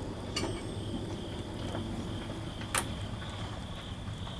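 Insects chirring on one steady high note over a low steady hum, with a sharp click near the middle and a fainter one about half a second in.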